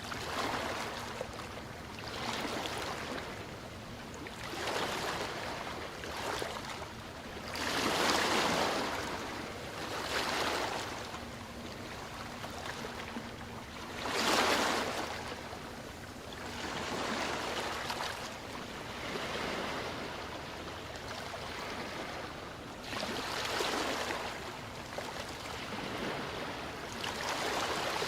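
Ocean surf: waves washing in and drawing back in swells every couple of seconds, with two larger waves breaking about eight and fourteen seconds in.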